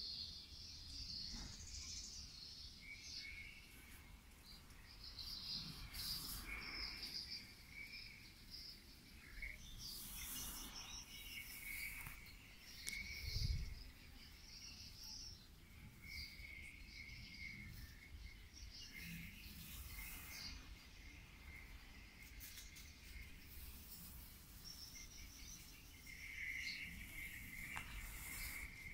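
Faint, intermittent chirping and short trills of small birds, some phrases high and some lower. A single low thump about halfway through.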